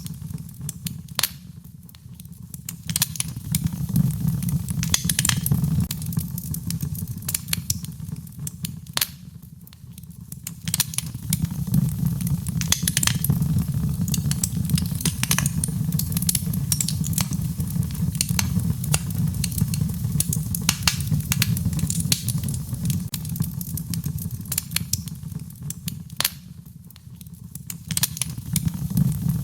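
Wood fire crackling in a fireplace: dense, irregular sharp pops and snaps over a low rumble of the flames, which dies down briefly three times and builds back up.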